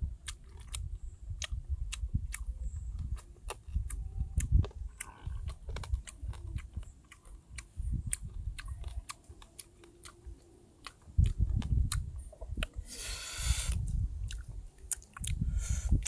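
A person chewing and crunching food close to the microphone, with many sharp crunchy clicks over soft low mouth thuds. A short loud rushing noise comes about three-quarters of the way through.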